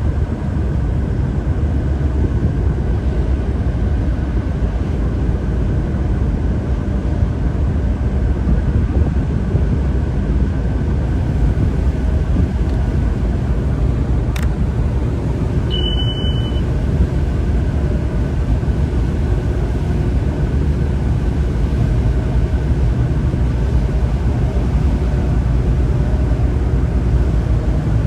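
Tugboat engine running steadily, a loud low drone with an even hum, as heard on board. A single sharp click about halfway through, then a short high beep a moment later.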